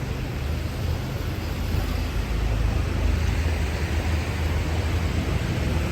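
Road traffic on a city street: a low engine rumble from passing vehicles over a steady hiss, growing a little louder about two seconds in.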